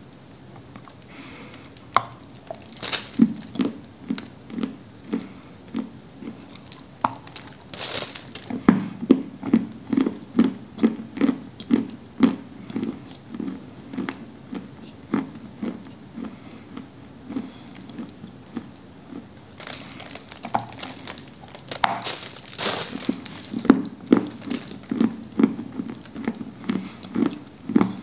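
Close-up chewing of a dry, chalky lump of 'Orsky cream', with steady chewing at about two chews a second. Sharp crunching bites break in a few times, about three seconds in, near eight seconds, and in a cluster around twenty to twenty-three seconds.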